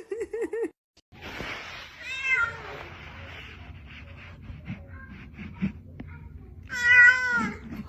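Domestic cat meowing twice: a short falling meow about two seconds in, then a louder, longer meow near the end.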